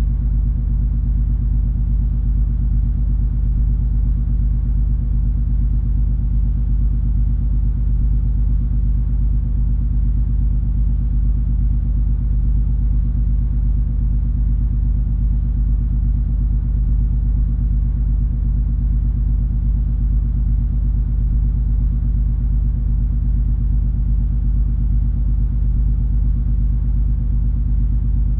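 Steady low rumble and hum of the cruise ferry MS Color Magic's engines and machinery under way, even and unchanging, with a constant low drone.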